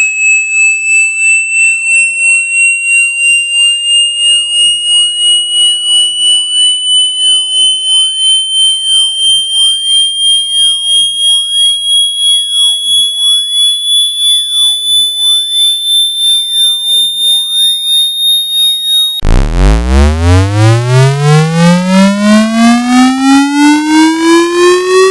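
Synthetic speaker-cleaning sweep tone: a pure, high electronic tone slowly rising in pitch and pulsing about twice a second. About 19 seconds in it switches abruptly to a louder, buzzy tone that sweeps quickly upward from a deep hum and keeps rising.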